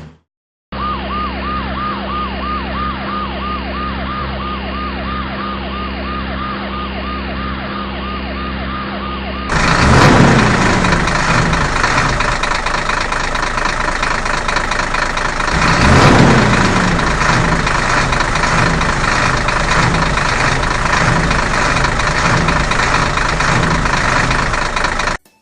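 Cartoon vehicle sound effects. First a siren yelps in a fast, even warble, about three to four cycles a second, over a steady engine hum. About nine seconds in it gives way to a louder, dense rushing noise with two falling whooshes, and this cuts off suddenly near the end.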